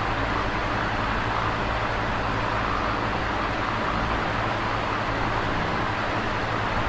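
Electric fan running steadily: an even rush of moving air with a low motor hum underneath.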